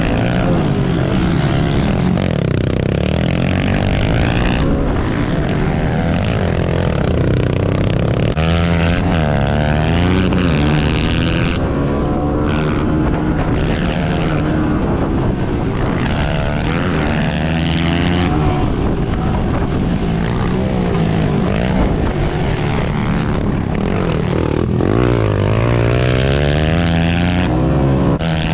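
Pit bike's small four-stroke single-cylinder engine at race pace, its pitch climbing and dropping over and over as it is revved hard and backed off.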